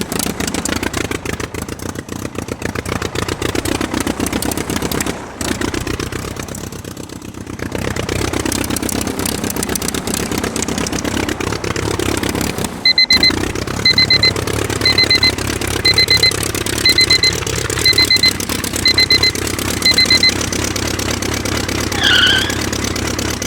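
Miniature diesel engine running, its speed rising and falling, with a couple of brief breaks. Through the middle comes a series of eight high electronic beeps about a second apart, and near the end a short falling squeak.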